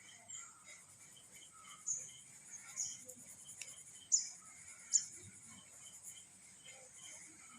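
Small birds chirping faintly, with a few short, sharp high chirps, the loudest two a little after four and five seconds, over a scatter of softer repeated tweets and a faint steady hiss.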